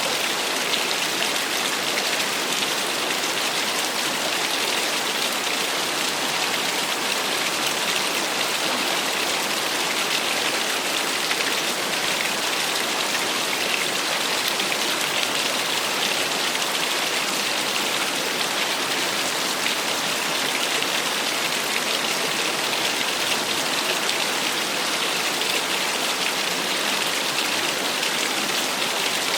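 Small waterfall splashing steadily, an even hiss of falling water with little low rumble.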